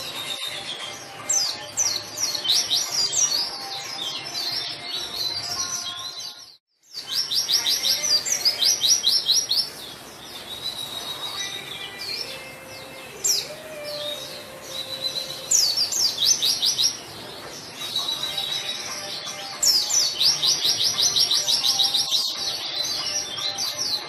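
White-eye (pleci) in full song: fast, rattling runs of steep, quickly repeated high notes, broken by a short silent gap about six and a half seconds in.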